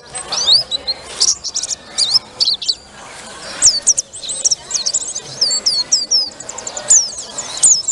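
White-eye (pleci buxtoni) singing loudly: a fast, continuous run of high, sharply slurring twittering notes, over a faint murmur of voices.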